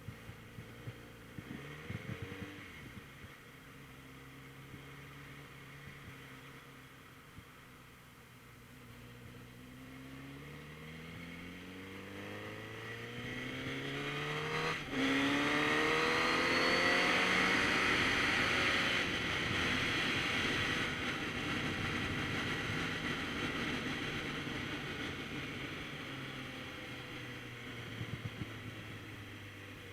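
Kawasaki Z900RS Cafe's inline-four engine pulling up through the revs, with a quick gear change about halfway through, and wind noise over the helmet or mount building to its loudest with speed before slowly easing off.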